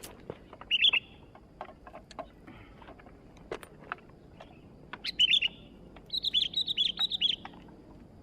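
Sooty-headed bulbul (kutilang) singing in short bright bursts: a brief phrase about a second in, another near five seconds, then a longer rapid run of notes near the end.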